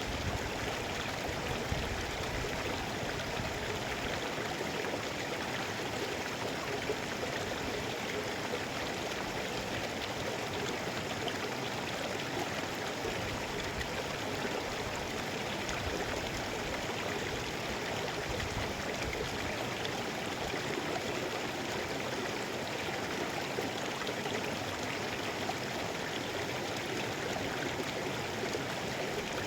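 Mountain river flowing: a steady, unbroken rush of running water.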